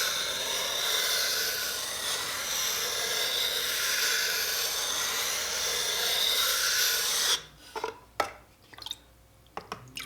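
Chisel bevel rubbed steadily along a wet water stone, a continuous gritty scraping that stops abruptly about seven seconds in. A few light clicks and taps follow.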